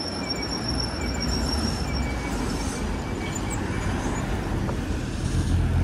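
Steady road and wind noise while riding an e-bike in the rain: tyres on wet pavement and wind rumbling on a chest-mounted camera's microphone, swelling near the end. A faint high whine fades out about two seconds in.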